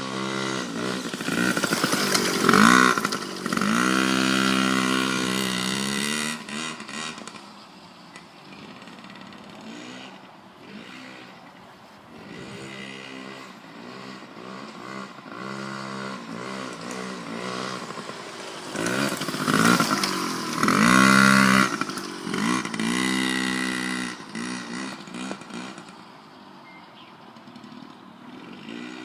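Small 50cc mini dirt bike engine running, climbing to high revs twice, early and again about two-thirds of the way through, and dropping back to lower revs in between.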